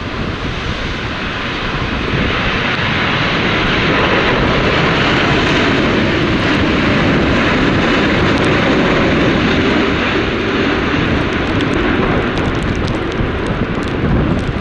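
Jet airliner passing low on its landing approach; the engine noise swells over the first few seconds, holds, and eases slightly near the end, with wind buffeting the microphone.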